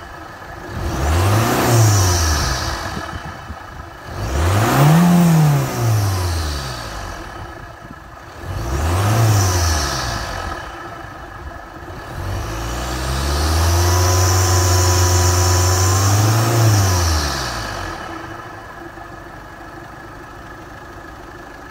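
Škoda Octavia RS 2.0 TDI diesel engine, fitted with an open Ramair Jetstream cone air filter, free-revved at a standstill. It gives three quick blips, then a rev held for about three seconds with another blip on top, and drops back to a steady idle in the last few seconds. Each rev brings a hissing intake whoosh over the engine note.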